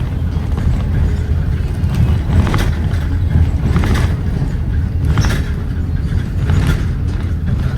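ATV engines running with a steady low rumble, with a few short rattles.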